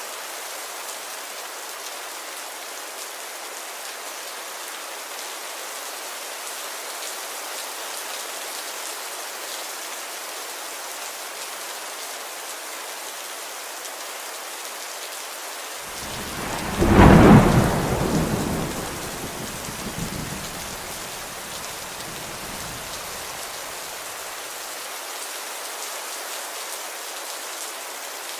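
Steady rain, with a thunderclap a little past halfway: it breaks in suddenly as the loudest sound, then rumbles and fades away over about seven seconds.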